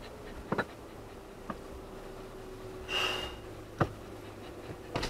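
Car engine idling with a low steady hum, with a few sharp clicks scattered through and a short hiss about three seconds in.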